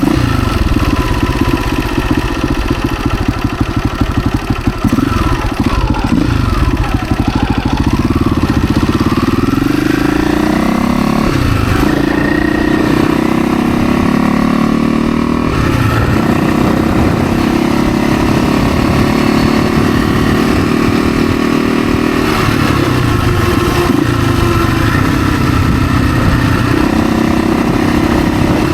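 Dirt bike engine under way on a ride, revving up and down, its pitch climbing and dropping several times before holding steadier for a while.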